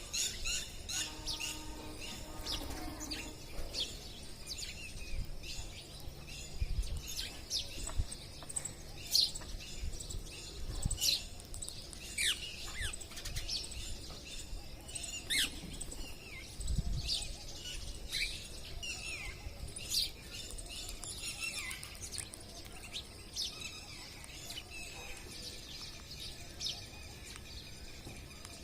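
Wild parrots calling: many short, sharp calls that slide downward in pitch, coming in quick clusters, with a few low thumps in between.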